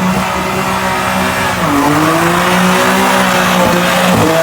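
Car engine held at high revs while its spinning tyres screech in a burnout. The revs dip briefly about halfway through, then climb and hold again before dropping away at the end.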